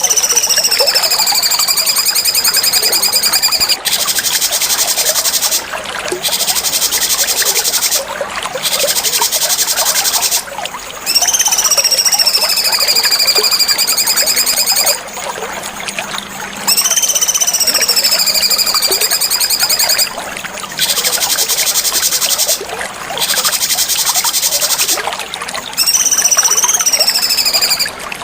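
Cucak cungkok songbird singing in repeated phrases. Long high whistles that swoop down and then hold alternate with high, fast buzzy trills, with short pauses between phrases.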